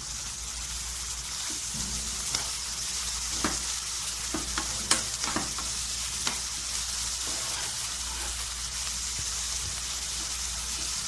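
Chopped onions, peppers and tomatoes with tomato paste sizzling in hot oil in a frying pan, stirred with a metal spoon. A few sharp clicks of the spoon against the pan come during the first half, the sharpest about five seconds in.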